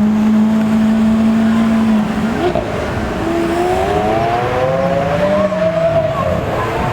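A car engine holds a steady note, then about two seconds in the pitch dips and climbs slowly for several seconds as the engine revs up.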